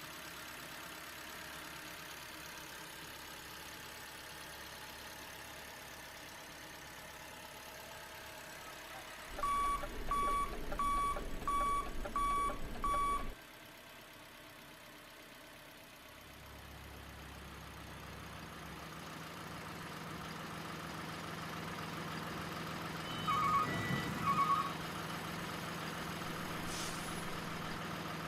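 Reversing alarm on a remote-control tow truck beeping about six times, evenly spaced, with an engine rumble under it, over a steady engine hum. Two short beeps come near the end.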